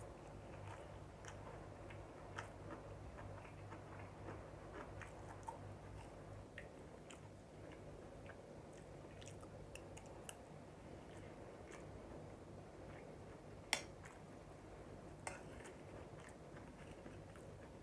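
Faint close-up chewing and mouth sounds of a person eating rice and stew with a spoon, with scattered small clicks of the metal spoon against the plate and a sharper click about fourteen seconds in.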